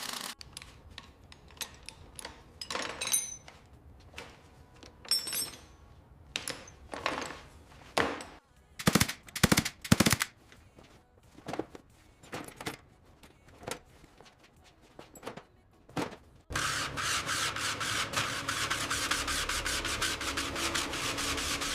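Restoration work on a car: a run of irregular sharp knocks and clanks, some in quick clusters, then, about three-quarters of the way through, a continuous fast-rattling hiss starts and runs on.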